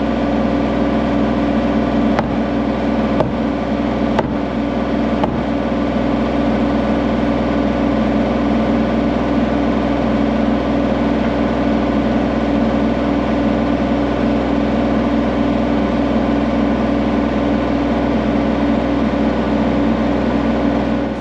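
An engine running steadily at constant speed, with a few faint clicks about a second apart in the first several seconds.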